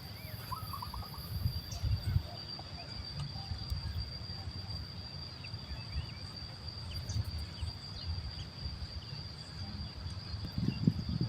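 Outdoor natural ambience: a steady high-pitched insect drone, over a low uneven rumble, with a few faint bird chirps.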